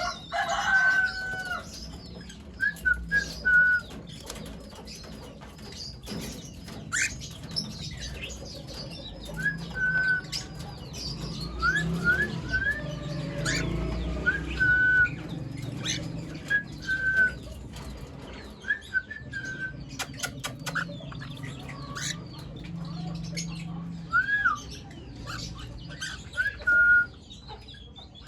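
Cockatiels chirping in many short whistled calls, some sliding up in pitch, with sharp clicks and rustling among them. A low hum sits underneath through the middle.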